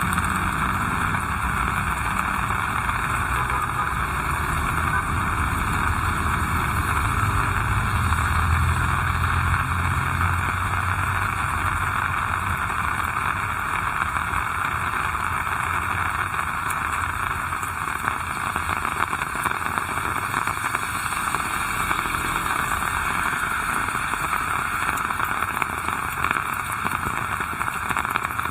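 Heavy rain falling with a steady hiss. A motor vehicle's engine rumbles low underneath in the first half, loudest about eight to ten seconds in, then fades away.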